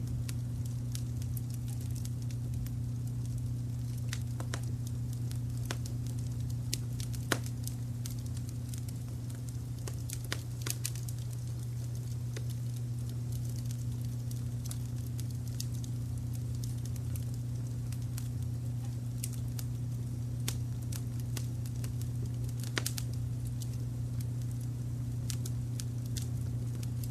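Wood fire crackling with scattered sharp pops, the strongest about a third of the way in and again near 23 seconds. Under it runs a steady low rumble of brown noise.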